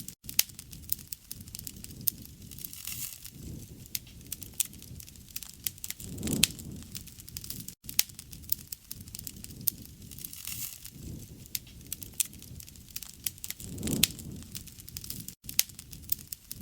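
Campfire crackling, with frequent sharp snaps and pops over a low rush of flame that swells up twice, about 6 and 14 seconds in.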